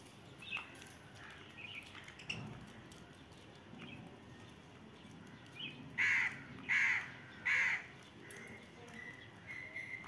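A few faint short bird chirps, then three loud harsh bird calls in quick succession, evenly spaced about two-thirds of a second apart.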